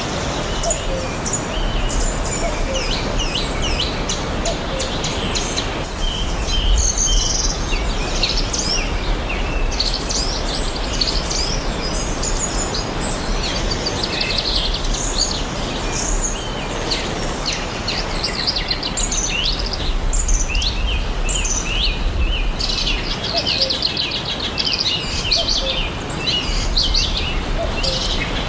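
Several songbirds chirping and trilling in a dense, overlapping chorus over a steady rushing background noise.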